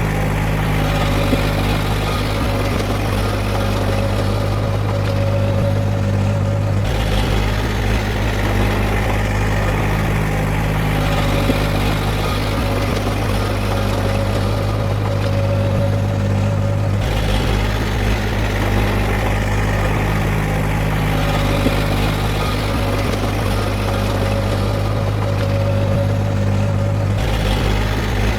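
Heavy diesel earthmoving machinery, such as a bulldozer, running continuously with a steady low engine drone. The engine note shifts about every ten seconds.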